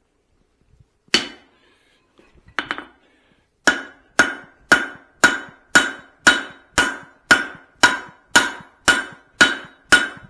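Hand-hammer blows on a hot steel hammer-head blank with a drift in its eye, widening the eye. Each blow rings; two single strikes come first, then a steady run of about two strikes a second.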